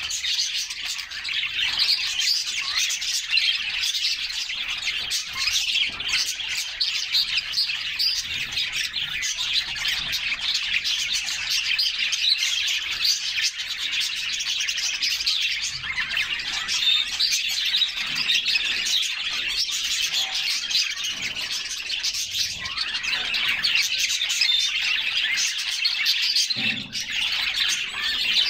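A group of canaries chirping and singing without pause, a dense chatter of overlapping high chirps and trills.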